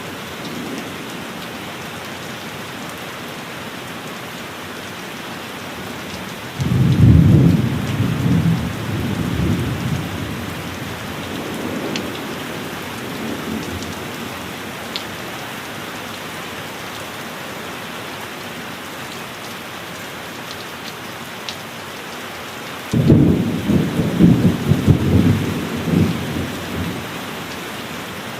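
Steady heavy rain with two claps of thunder: one breaks about a quarter of the way in and rumbles away over a few seconds, and a second, louder one breaks near the end and rumbles on for several seconds.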